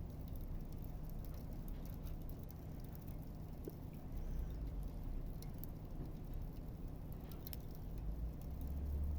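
Campfire crackling faintly, scattered sharp pops over a steady low rumble that swells near the end.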